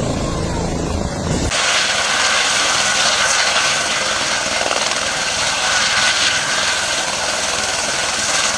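Helicopter running: a steady rushing noise with a held whine. About a second and a half in, an abrupt change swaps a deep rumble for a thinner, higher sound.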